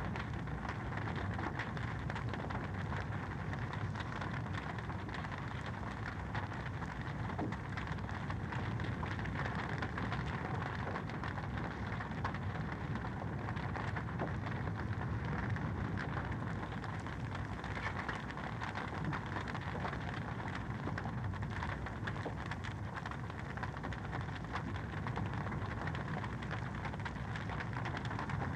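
Wood fire in a fireplace crackling steadily: a dense run of small pops and ticks over a low rumble.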